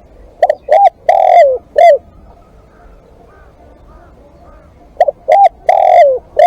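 Caged decoy spotted dove cooing: two phrases of four low notes, each two short coos, a long one, then a short one, about four seconds apart.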